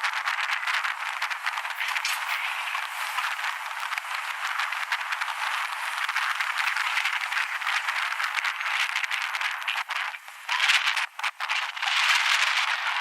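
Wind buffeting the microphone while riding a board: a steady rushing hiss with crackles through it, briefly dropping out a few times near the end.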